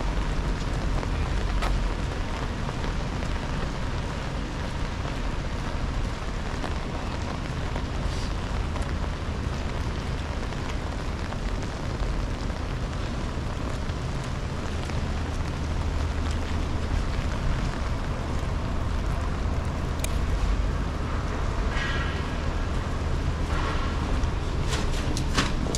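Steady rain falling, an even hiss with a low rumble underneath. Twice near the end comes a brief rapid chirping.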